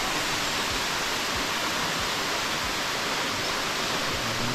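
Steady rush of a waterfall's falling water, an even hiss and roar with no breaks.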